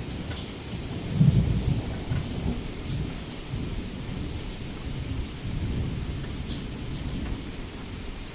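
Heavy rain with low rolling thunder. The rumble swells about a second in, over a steady rain hiss with scattered sharp drop ticks.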